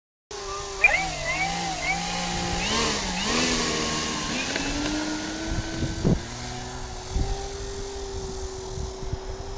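Electric brushless motor and three-blade propeller of a large RC P-47 running, its pitch wavering up and down with the throttle for the first few seconds, then settling into a steady drone. A few low bumps come in the second half.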